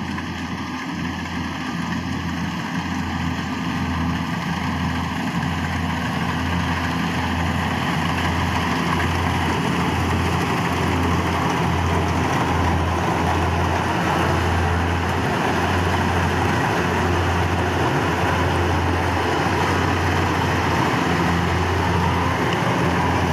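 Rice combine harvester running steadily: a low engine hum under the clatter and whir of its cutting and threshing machinery. It grows louder over the first several seconds, then holds steady.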